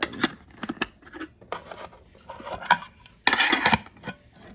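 Lightweight aluminum camping pots, pan and lids clinking and knocking together as they are handled, with a louder burst of clattering about three and a half seconds in.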